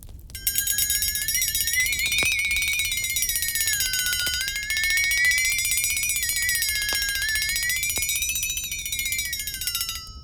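A high, buzzy tone that slowly wavers up and down in pitch for about ten seconds, gliding down as it ends: an eerie sound effect between stories.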